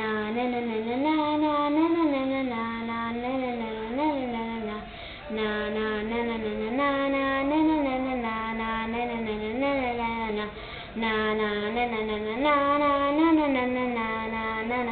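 A child singing a wordless 'na na na' tune, a short melody sung over and over in phrases, with brief pauses about five and eleven seconds in.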